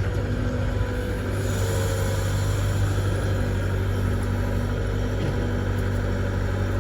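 Heavy diesel engine running steadily with a constant low drone.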